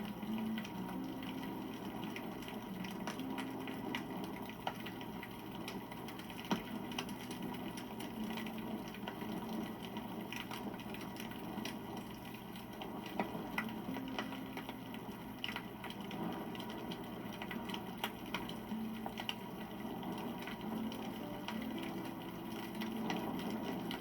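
Wood campfire crackling steadily, with many small pops and snaps.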